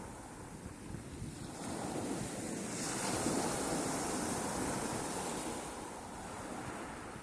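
Sea waves breaking and washing ashore: a wave swells and breaks about three seconds in, and its hiss fades over the next few seconds.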